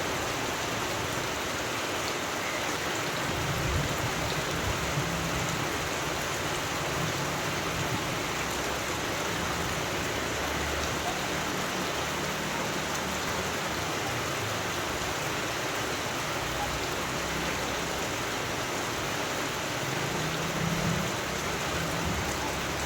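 Steady rain falling: a dense, even hiss of drops that holds constant.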